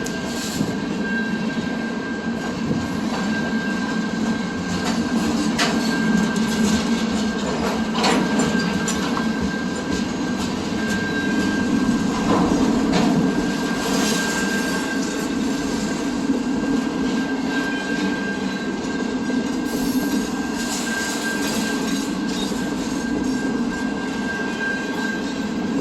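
A train rolling past on the rails: a steady rumble of wheels with one high, steady ringing tone held throughout and a few sharp clacks along the way.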